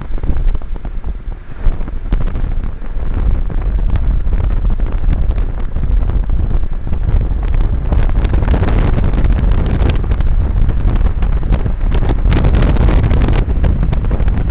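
Storm wind buffeting the microphone over a moving car's low road rumble. A broad hiss swells about eight seconds in and again near the end.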